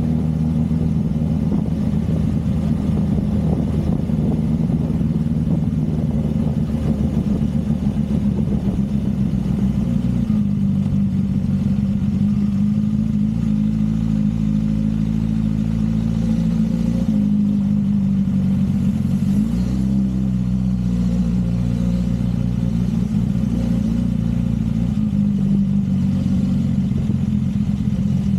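Motorcycle engine running steadily on the road, its note shifting pitch in steps several times.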